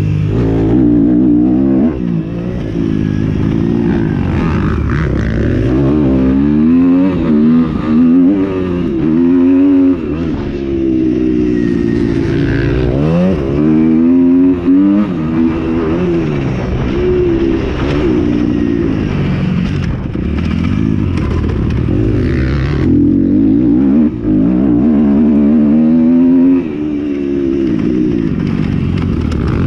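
Several motocross bikes running hard, their engines revving up and dropping back again and again as they accelerate and shift, with the pitches of different bikes overlapping.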